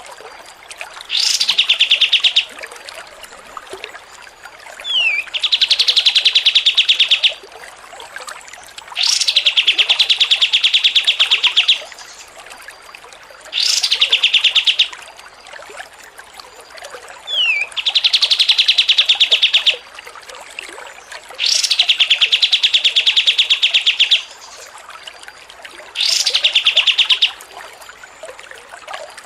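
Songbird song played as a masteran (song-tutoring) recording. A pattern repeats about every four seconds: a sharp note sweeping steeply upward, then a rapid rattling trill lasting one to two and a half seconds, with a short falling whistle in some of the gaps.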